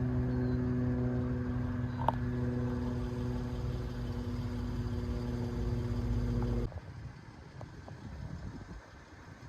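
Heavy garbage truck's engine running steadily, with a steady hum or whine over a low rumble. It cuts off abruptly about two-thirds of the way through, leaving a quieter rumble. A single sharp click about two seconds in.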